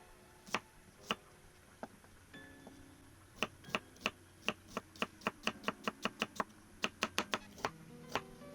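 Sharp taps or knocks at an uneven pace: a few scattered ones at first, then a quick run of about three a second in the second half. Soft background music plays underneath.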